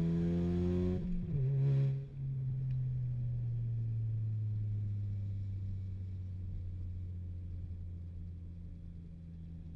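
Ford Mustang EcoBoost's turbocharged 2.3-litre four-cylinder with a loud aftermarket exhaust, pulling with rising pitch for about a second. The pitch then drops and the exhaust settles into a steady low drone that slowly falls in pitch and level as the car slows.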